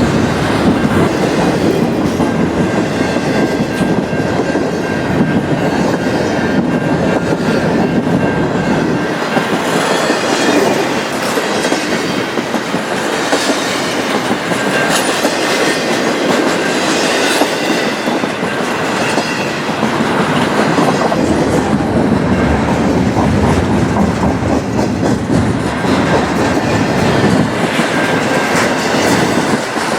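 A train's cars rolling steadily past, steel wheels clicking over the rail joints, with no pause throughout.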